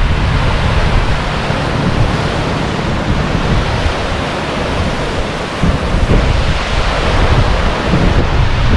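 Wind buffeting the microphone: a steady rushing noise with a gusting low rumble underneath.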